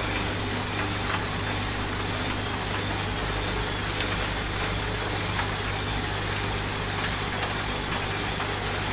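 Washing machine running with a steady low hum, layered with steady rain; a few light ticks now and then.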